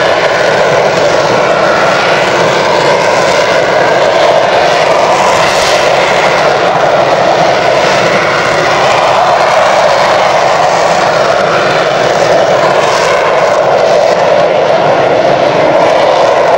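Engine of a military training aircraft running loud and steady, a continuous rushing drone with slowly wavering pitch.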